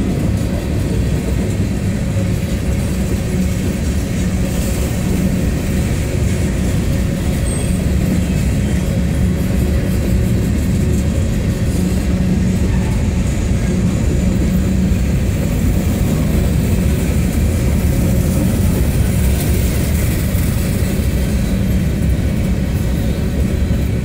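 Norfolk Southern mixed freight train's covered hopper cars rolling past: a steady low rumble of steel wheels on the rails, with a steady hum under it.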